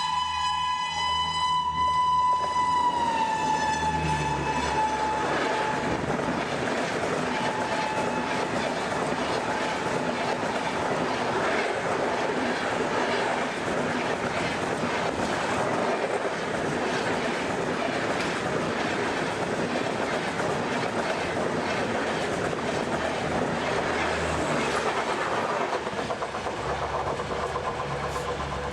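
Rajdhani Express passing at speed: the locomotive's horn holds one long chord, drops in pitch as it goes by a few seconds in, and fades. The coaches then rush past with a steady clickety-clack of wheels over the rail joints.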